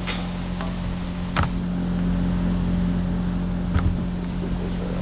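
A few sharp metallic clicks and knocks from wrenches working the steel counterweight bolts, the loudest about a second and a half in and another near four seconds, over a steady machine hum.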